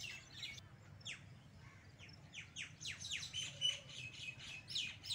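Small birds chirping: a quick series of short, high notes that each fall in pitch, starting about a second in and growing busier.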